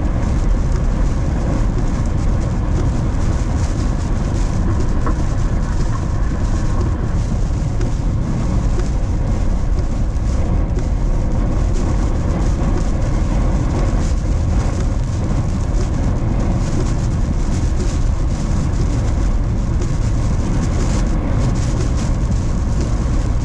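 Steady road and engine rumble heard from inside a moving vehicle, even and unbroken throughout.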